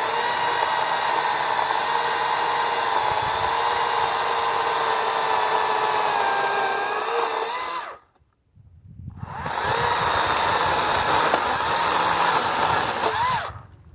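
Kobalt 40V Max battery-powered chainsaw cutting through a roughly 5-inch cedar log, its electric motor and chain giving a steady whine. It stops abruptly about 8 seconds in, restarts about a second later, and runs down near the end as the cut goes through.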